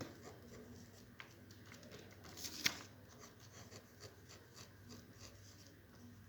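Faint rustling and small clicks of handling over a low steady hum, with a brief louder rustle about two and a half seconds in.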